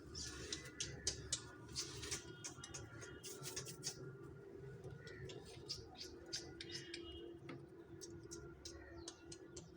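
Pet parrot making small irregular clicks and scratches, over a steady low hum.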